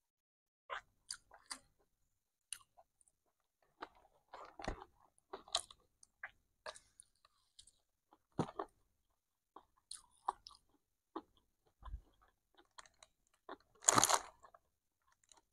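Close-miked chewing and mouth sounds of a person eating nasi Padang by hand: scattered soft smacks and crunchy clicks with pauses between. One louder, longer burst of noise comes near the end.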